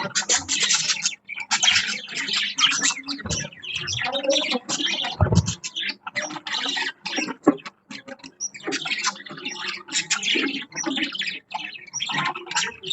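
Several budgerigars chirping and chattering continuously, a dense run of short overlapping calls, with a couple of brief low thumps.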